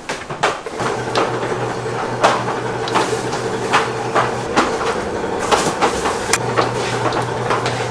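A machine starts up about a second in and runs with a steady hum, under irregular clicks and knocks.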